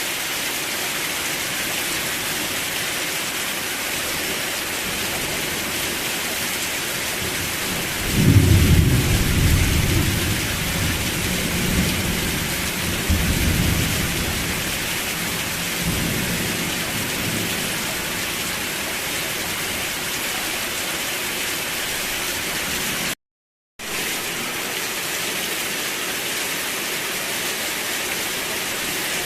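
Steady rain hiss, with a rumble of thunder rolling in about eight seconds in and dying away by about sixteen seconds. The sound cuts out completely for half a second near the end.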